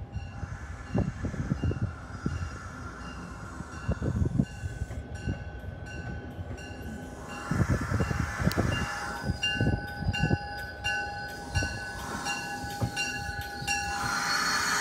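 MBTA commuter rail push-pull train pulling into the station, cab car leading: a bell rings in quick even strokes, about two a second, a steady squeal sets in about nine seconds in, and the train's rumble and hiss grow loud near the end as it comes close. Low thumps come and go throughout.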